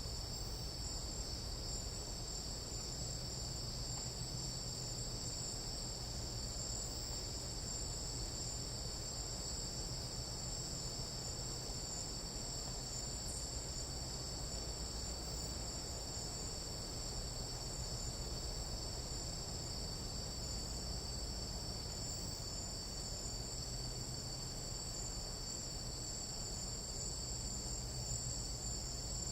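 Steady, unbroken chorus of night insects in a tropical jungle: a high shrill made of several stacked tones, over a faint low hum.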